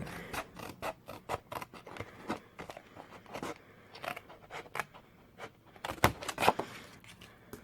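Scissors cutting through cardstock along a score line: a run of short, irregular snips and crisp paper scrapes.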